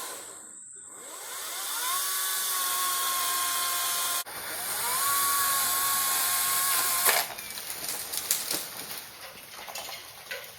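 Hart 14-inch battery-powered chainsaw's electric motor spinning up to a steady whine, cutting out briefly, restarting and running again before stopping about seven seconds in. Scattered sharp cracks and snaps follow near the end.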